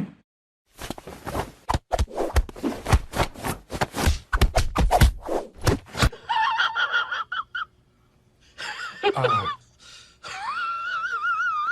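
A cat yowling in drawn-out, wavering calls, one of them falling steeply in pitch. Before the calls, about six seconds of rapid, irregular scuffling noise.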